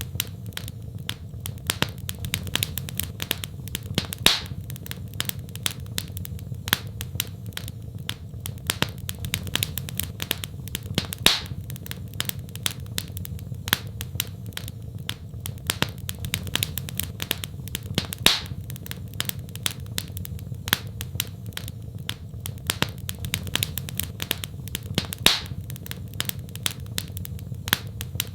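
Fire crackling in a fireplace: dense small crackles and snaps over a low steady rumble, with a louder pop about every seven seconds.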